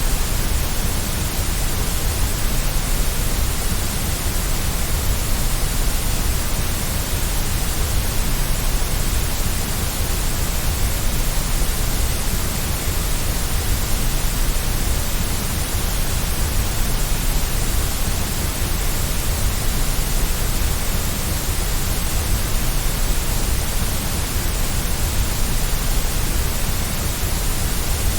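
Steady white noise: an even, unchanging hiss across all pitches, with a deep low rumble under it.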